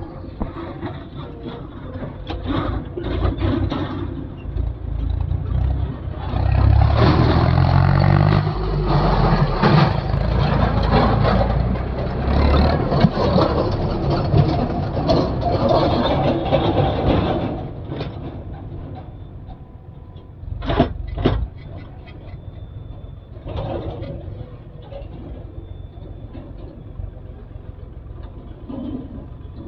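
Diesel engine of a backhoe loader revving up hard under load about six seconds in and working loudly for roughly ten seconds, then dropping back to a lower run. A few sharp knocks come later.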